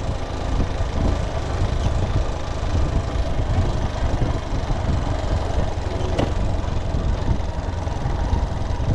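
Motorcycle engine running steadily while riding, mixed with road noise; a brief click about six seconds in.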